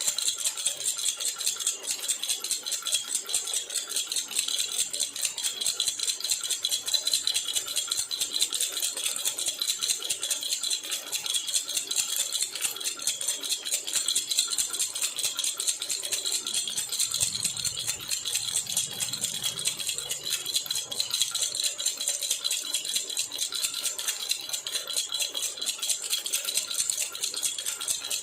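Baby rattle (jhunjhuna) shaken steadily and continuously, a dense, fast, high rattling with no breaks.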